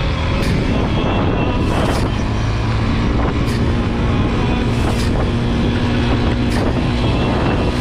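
Motorcycle engine running at a steady pace while riding, with the rush of the ride over it and a few short knocks about every second and a half.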